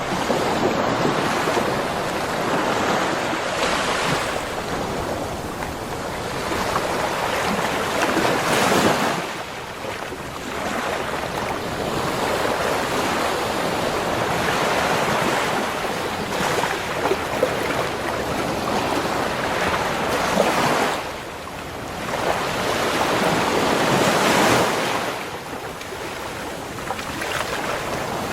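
Ocean waves breaking on a beach, a steady wash of surf that swells and falls back every few seconds, with the bigger breakers about 8 seconds in, then around 20 and 24 seconds in.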